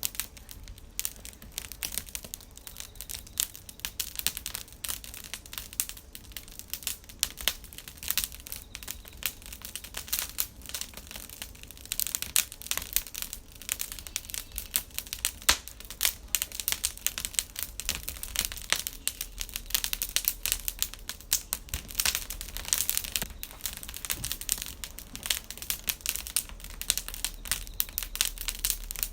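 Wood campfire crackling steadily, a dense run of small irregular snaps.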